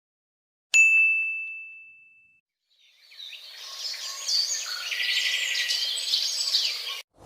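A single bright bell ding that rings out and fades, followed after a short pause by a chorus of many small birds chirping and singing, which cuts off just before the end.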